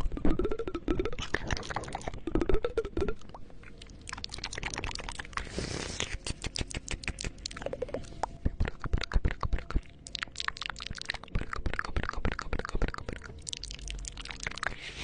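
ASMR mouth sounds made close to a 3Dio binaural microphone: rapid, wet tongue clicks and lip smacks, dense and irregular throughout, with a few short gliding voiced sounds in the first three seconds.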